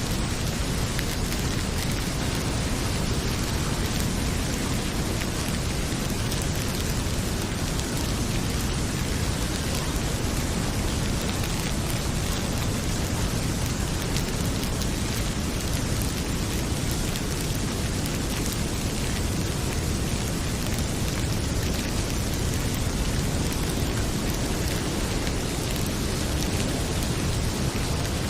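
Heavy rain pouring steadily, a dense even hiss with a full low rumble, and faint scattered crackles from a wood fire in a fireplace.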